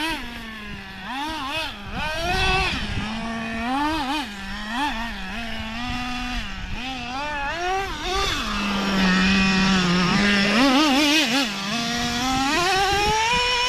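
A radio-controlled car's engine revving up and down over and over, with a steady stretch in the middle, then revving higher and higher near the end; its shifting is likened to an F1 car.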